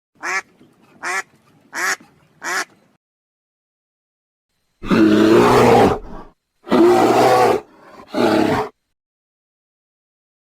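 A duck quacking four times, then after a pause of about two seconds a tiger roaring three times, loud and rough.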